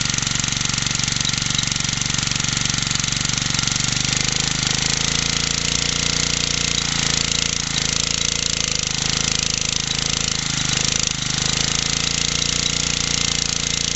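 50cc BSA field charger engine running steadily on a cold start, after standing unused for about a year. Its speed wavers and dips a few times partway through, then settles.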